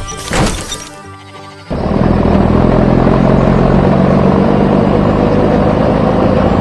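Background music with a quick swoosh near the start. From about two seconds in, a loud, steady cartoon truck engine rumble covers it and stops just after the end.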